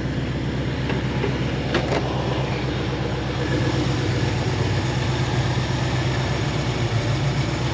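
1973 AMC Jeep CJ5 engine idling steadily, running smoothly with no misses.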